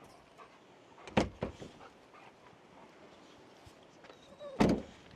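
A few sharp knocks or thumps: a loud one about a second in with a smaller one just after, and another loud one near the end, over faint quiet background.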